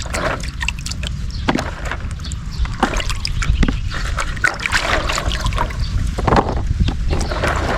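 Water sloshing and splashing, with irregular knocks and clatters, as fresh turmeric roots are washed by hand.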